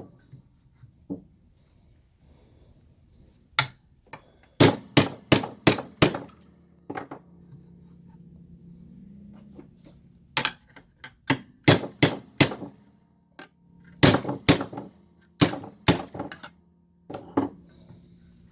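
Hammer blows on a bent Leslie 122 amplifier's metal chassis as a kink is beaten straight: about eighteen sharp metallic strikes in short groups of two to five, with pauses between groups.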